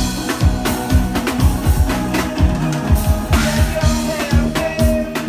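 Live soca band music with a steady, uptempo kick-drum beat, drum kit and a held melodic line.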